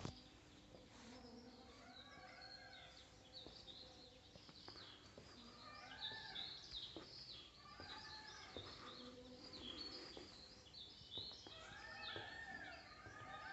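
Faint birdsong: many short chirping calls from several birds overlapping, with a few soft knocks among them.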